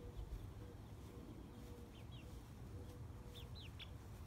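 Faint, short, high bird chirps: a pair about two seconds in and a quick run of three or four near the end, over quiet outdoor background.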